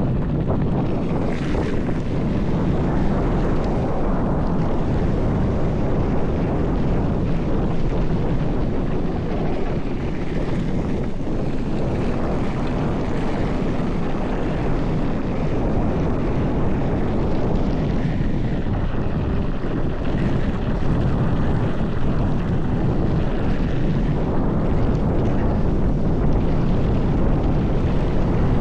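Mountain bike descending a dirt trail at speed: tyres rumbling over the rough ground with a constant patter of small knocks and rattles, and wind buffeting the microphone.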